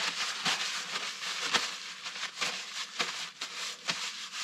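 Shop rag wiping excess oil off an engine cylinder: an uneven rubbing with frequent small scuffs and clicks.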